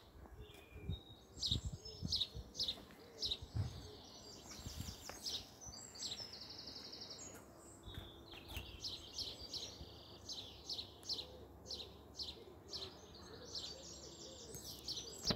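Small birds chirping, with short high calls and rapid trills repeating throughout. A few soft low knocks come in the first few seconds.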